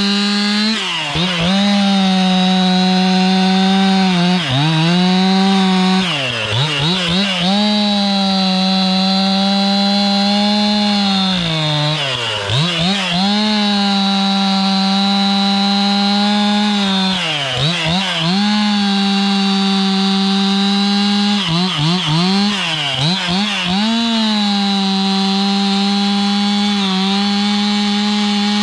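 Stihl MS 261 two-stroke chainsaw running at high revs, its pitch sagging and recovering about eight times as it is throttled off and loaded in the wood between and during cuts.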